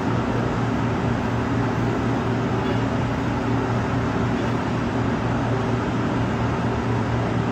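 Steady low mechanical hum with a constant rushing noise over it, unchanging throughout.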